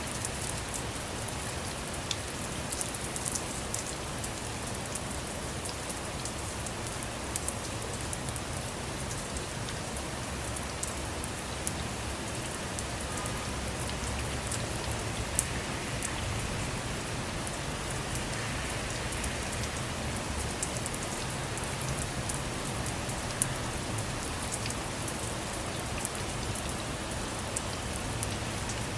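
Steady rain falling on a car, heard from inside, with many small sharp drop ticks over an even hiss and a low rumble underneath; a few drops land louder than the rest.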